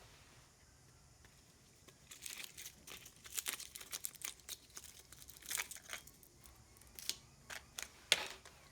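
Crinkling and tearing of the plastic packaging of a cheap puncture repair kit being handled and opened, in irregular crackly bursts that start about two seconds in, with a sharp click near the end.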